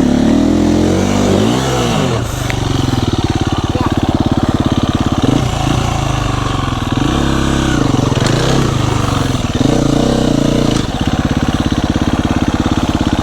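Dirt bike engine running close by at a steady low pace, with several short throttle blips where the pitch rises and falls.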